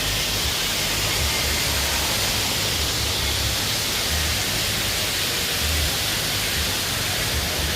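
Steady rushing water, a continuous roar of falling and churning water, with intermittent low wind buffeting on the microphone.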